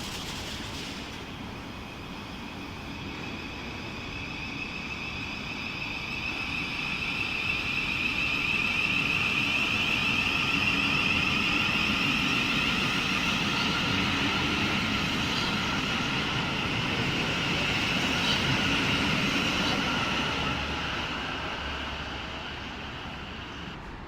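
Electric train passing: a steady high whine of several tones over a rumble, swelling over several seconds and fading near the end.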